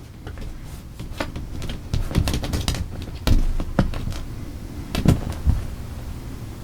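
Kittens pawing and scrabbling: irregular light taps, scratches and a few soft thumps.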